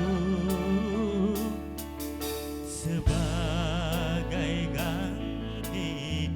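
Dangdut mini band music: a lead melody held with wide vibrato over a steady bass line, with a short break about halfway through.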